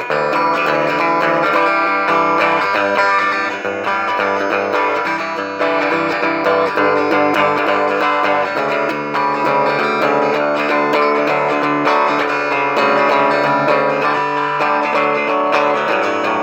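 Guitar music: plucked and strummed guitar notes playing continuously.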